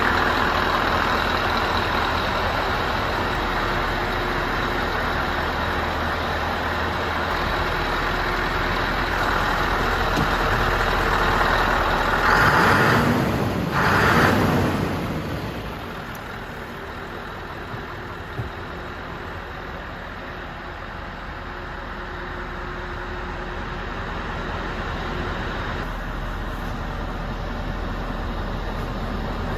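Scania diesel engine running steadily. About halfway through there are two brief louder rushes of noise, followed by a single click.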